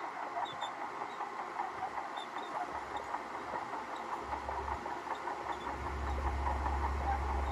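Shantui crawler bulldozer at work: a dense, continuous clatter and squeal of its steel tracks, with the engine's low rumble growing louder about six seconds in.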